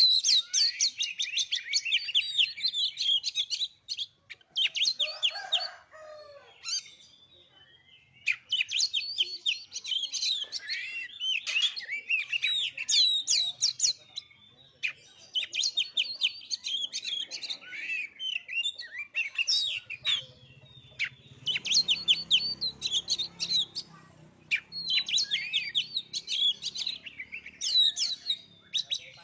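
Oriental magpie-robin (kacer) song: bouts of rapid, varied high whistles and chattering notes, broken by short pauses, with a longer gap a few seconds in. A faint low rumble sits under the song for a few seconds past the middle.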